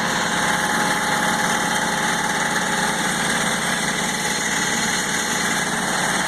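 Kubota GR2100 garden tractor's diesel engine running steadily, moments after a cold start without glow plugs in below-freezing weather.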